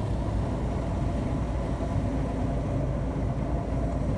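Steady drone of a road-commission salt and plow truck's engine and road noise, heard from inside the cab.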